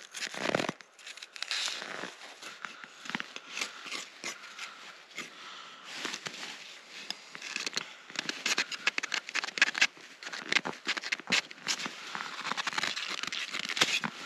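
Knife shaving thin curls off a frozen grayling for stroganina: an irregular run of quick scraping, crackling strokes.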